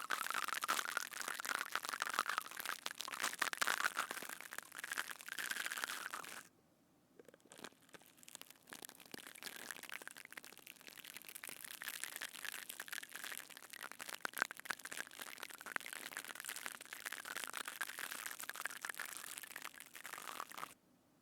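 Slime squished and kneaded close to a binaural microphone: a dense, crunchy crackling that pauses for about a second some six seconds in, then resumes and stops near the end.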